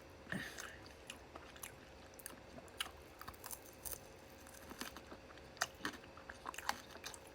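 Close-up mouth sounds of someone chewing tender, juicy chicken skewer meat: irregular wet clicks and smacks.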